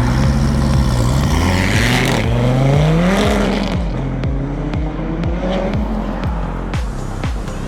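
A sports car's engine revving hard as the car accelerates away, its pitch climbing for about three seconds before the sound falls away.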